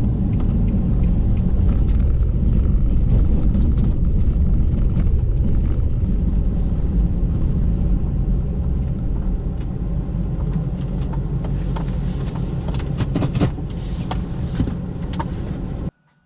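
Truck driving at road speed: a steady engine and road rumble, heavy in the low end, with scattered clicks and ticks over the last few seconds, cutting off suddenly near the end.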